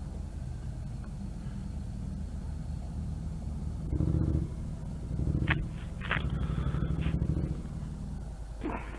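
Motorcycle engine idling with a steady low pulsing rumble, swelling louder a few times from about four seconds in.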